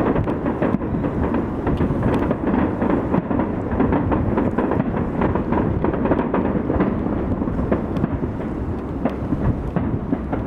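Aerial fireworks bursting in rapid succession. The booms merge into one continuous rolling rumble, with many sharp cracks and crackles on top.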